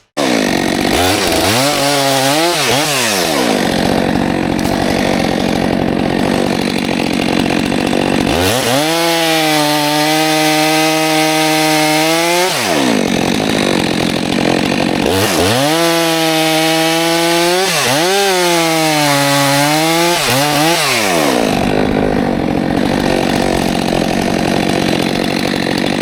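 Stihl 462C chainsaw running at full throttle, cutting firewood. The engine pitch sags and recovers several times as the chain loads up in the wood.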